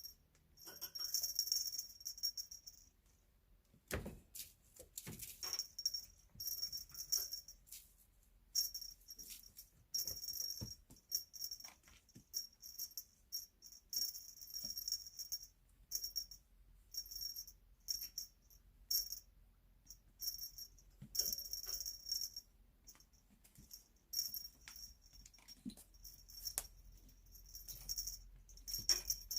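Small bell jingling in irregular bursts as kittens play, with a few light knocks in between.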